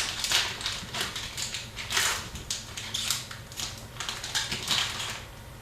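Hockey trading cards being handled and leafed through by hand: a quick, irregular run of dry swishes and clicks that stops a little before the end.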